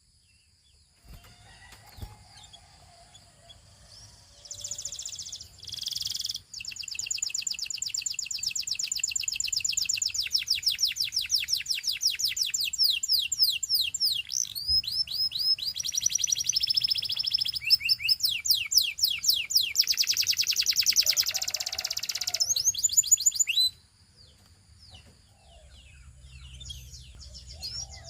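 Canary singing: after a few quiet seconds with faint chirps, a long song of rapid high trills and rolls starts about four seconds in and stops abruptly near 24 seconds, followed by soft scattered chirps.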